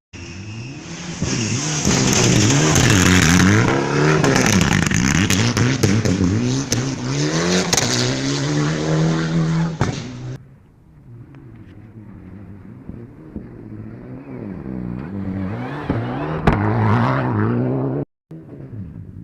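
Rally car engines at full throttle, revs rising and falling through quick gear changes as cars pass, with a clatter of sharp clicks over the loudest pass. About halfway through the sound drops abruptly to a quieter engine, which revs up again near the end before another sudden break.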